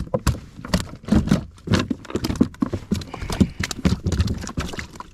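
A freshly landed bass flopping and slapping against a kayak's deck, a rapid, irregular run of thumps and knocks.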